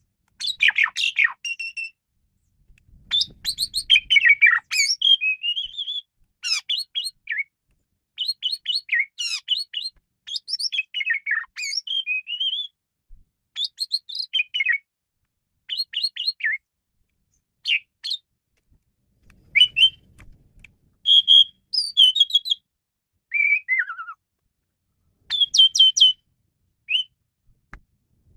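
Male pied starling (jalak suren) singing a varied song: bursts of quick whistles, chattering notes and sharp clicks, some sliding up or down in pitch, in phrases a second or two long separated by short pauses.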